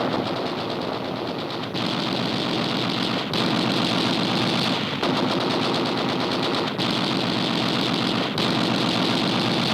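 Sustained rapid machine-gun fire from a warship's guns firing on a surfaced submarine, a dense continuous clatter. It jumps abruptly in level and character about every second and a half, at the film's sound splices.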